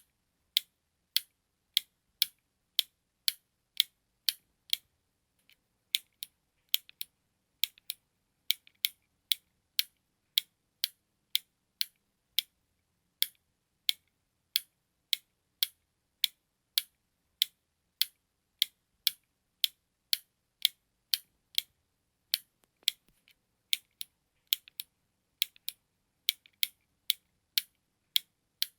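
Button clicking: sharp, short clicks in a steady rhythm of about three every two seconds, with a brief pause about five seconds in.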